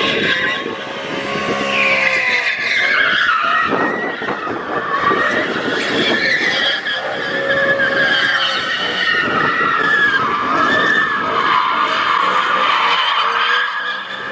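A car doing donuts: its tires squeal continuously, the pitch wavering, while the engine revs up and down under full throttle.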